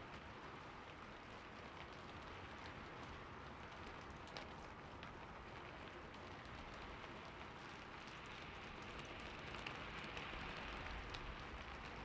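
Steady rain falling on a roof: an even hiss of rainfall with scattered individual drop ticks, swelling slightly near the end.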